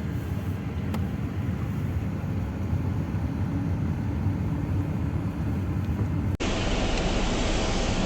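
Steady low rumble of a car driving, road and engine noise picked up by a dashcam. About six seconds in it cuts abruptly to another recording of driving noise with more hiss.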